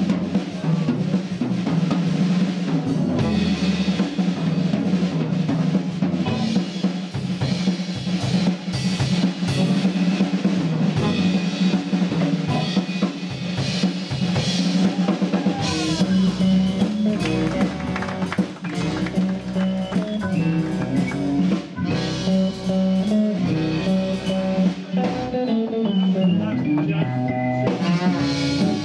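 Live jazz combo playing a swing tune, the drum kit to the fore with snare and rimshot hits, over guitar and bass. Pitched melodic runs grow busier in the second half.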